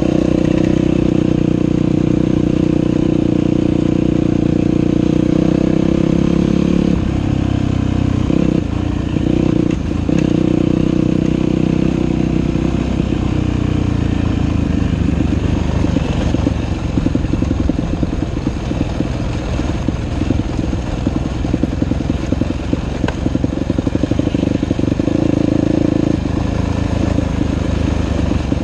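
Dirt bike engine riding a trail: held at steady revs for about seven seconds, the throttle closed and reopened a few times, then lower, uneven chugging over the rest, with one brief steady rev near the end.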